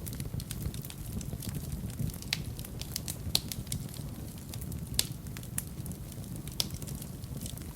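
Fire burning in a fireplace, crackling with irregular sharp pops over a low steady rumble; the loudest pops come about three and a half and five seconds in.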